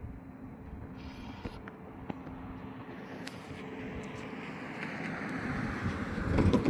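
A road vehicle approaching and passing close by, its tyre and engine noise building over several seconds to a peak near the end, over a steady low hum.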